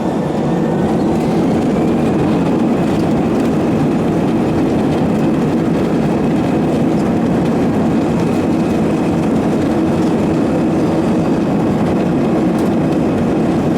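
Airbus A320-214 jet engines at take-off thrust, heard inside the passenger cabin: loud, steady engine and airframe noise with a thin high whine that rises over the first two seconds and then holds.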